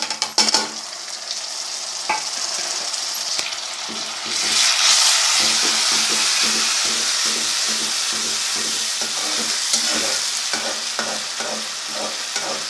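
Tomato paste, onions and garlic sizzling as they fry in a pan, the sizzle growing louder about four seconds in. From about halfway a spoon stirs and scrapes the pan in a quick, steady rhythm.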